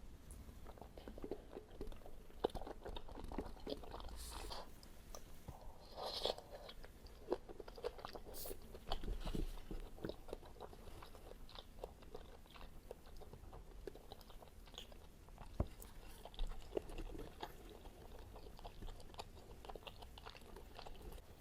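A person eating close to the microphone: steady chewing with many small crunches and crackles as the food is bitten and chewed.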